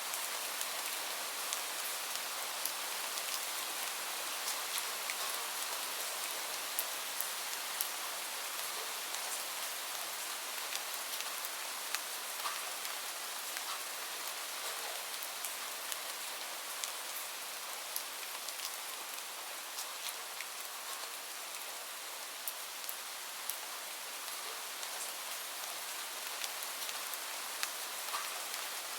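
Steady gentle rain hiss, with frequent small sharp crackles from a wood fire scattered through it.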